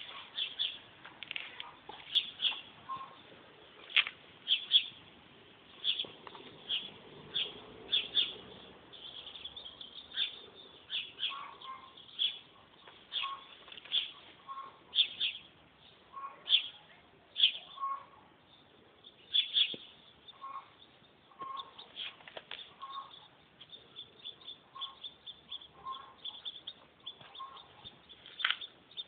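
Small birds chirping: many short, irregular high chirps in quick succession.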